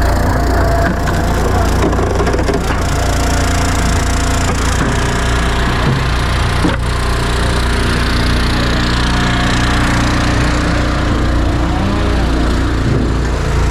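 Firewood machinery running steadily: engines of log splitters droning, with wood cracking and splitting and a few sharp knocks.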